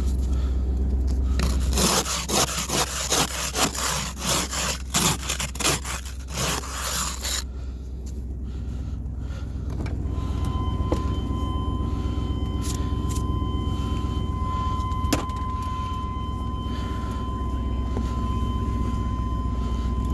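1998 Chevy Silverado's 350 Vortec V8 idling steadily after a cold start at −16 °C. From about two seconds in to past the middle there is a run of irregular scraping strokes. A steady high-pitched tone comes in about halfway through and holds.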